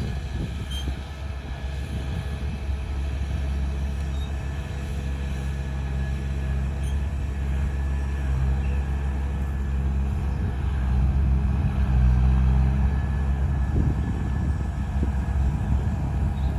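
Heavy diesel engine of earthmoving machinery running steadily under load, swelling louder partway through.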